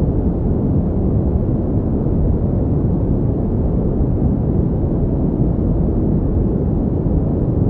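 Steady pink noise: an even, unchanging noise with most of its weight in the low pitches, dull rather than hissy.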